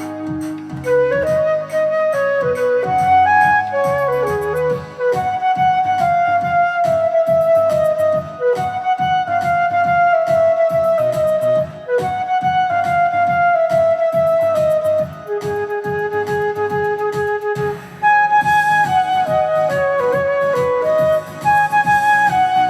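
Solo flute playing a pop song melody by ear over a karaoke backing track with a steady beat, mostly long held notes that slide down a step at a time.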